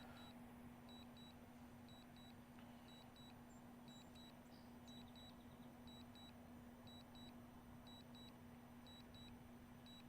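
Faint double beeps from a DJI drone's remote controller, a pair about once a second, the alert that return-to-home is in progress. A steady low hum runs underneath.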